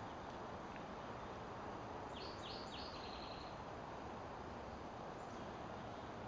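Spotted towhee singing one song about two seconds in: three quick high notes followed by a short buzzy trill, faint over steady background noise.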